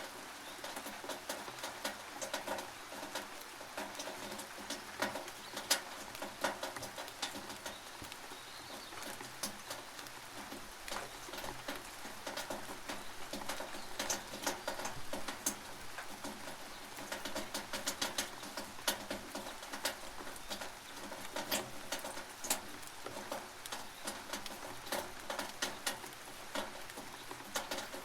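Rain dripping onto a tin roof: irregular sharp ticks and taps of drops on the metal over a steady hiss of rain.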